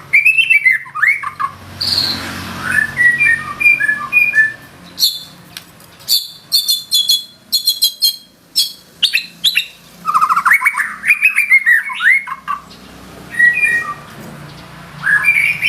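White-rumped shama singing a loud, fast, varied song: quick trills, rising and falling whistles and repeated chips in phrases with short pauses between them, full of mimicked fill-in phrases.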